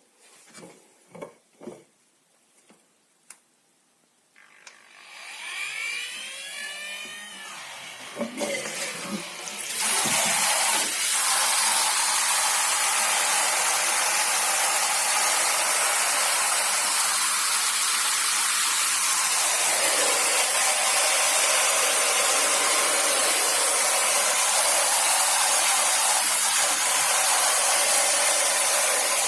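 A few light knocks, then the battery pump of a portable camping shower starts with a whine that shifts in pitch. About ten seconds in, a loud, steady spray of water from the shower head begins and lasts to the end.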